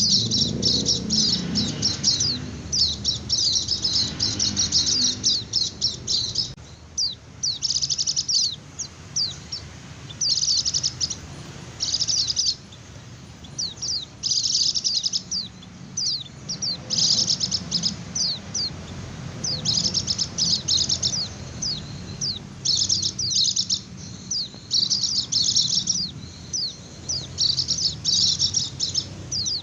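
White-eye (pleci) singing its fast chattering 'ngecir' song: rapid runs of high, quick sweeping chirps in bursts of a second or two, broken by short pauses.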